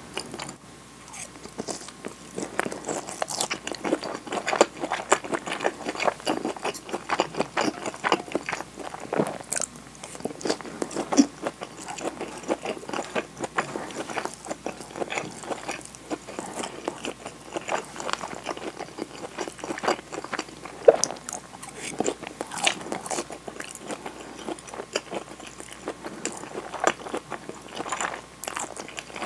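Close-miked chewing and biting, as onigiri (a rice ball wrapped in nori) and glazed sausages are eaten. The mouth sounds come as a dense run of small clicks and crackles, with sharper bites here and there.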